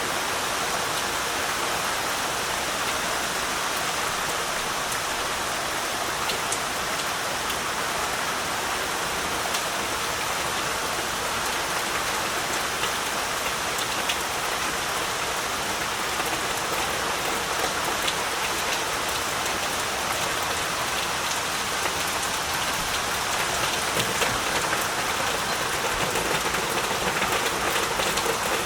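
Heavy rain falling steadily, with a constant hiss and scattered individual drops pattering on surfaces.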